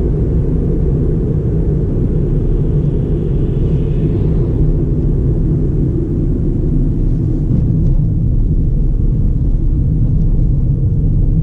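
2009 Ford Fiesta 1.4's four-cylinder engine and tyres on the road while driving: a steady, low rumble with no change in pace.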